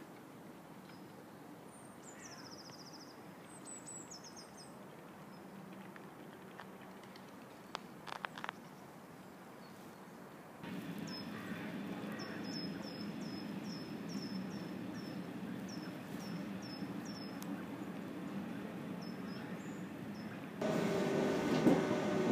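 Small birds chirping over a faint steady outdoor hum. In the middle one bird repeats a short high chirp about twice a second, with a few soft clicks a few seconds before. Near the end the sound cuts to the louder, steady rumble of a moving train.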